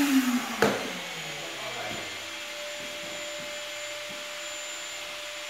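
Oscillating sander switched off and spinning down, its pitch falling as it slows in the first half-second, then a click. A faint steady hum and light handling noises follow.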